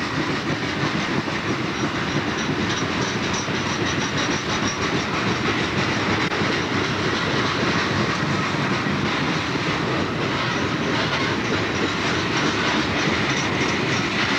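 Freight train of open hopper cars rolling past: a steady rumble with the clatter of steel wheels on the rails.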